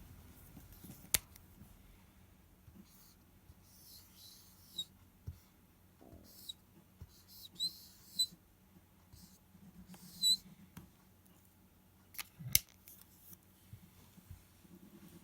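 Small plastic building blocks being handled and pressed together: scattered sharp clicks, the loudest about a second in and twice near 12 seconds, with short squeaky plastic scrapes in between.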